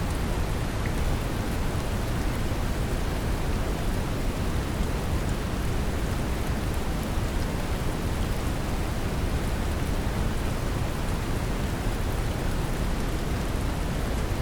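Steady brown noise mixed with gentle rain: a deep, even rush with a soft hiss of falling rain over it, unchanging throughout.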